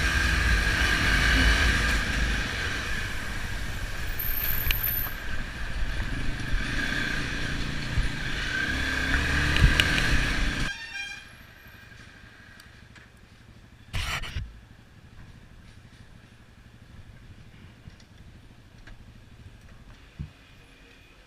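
Motor vehicle engines and traffic noise running for about ten seconds, then cutting off abruptly to a quiet background, with one short noise a few seconds later.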